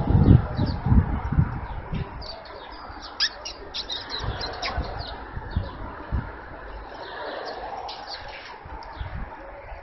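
Small birds chirping in many quick, short notes, busiest a few seconds in, over low rumbling noise that fades after the first second or two.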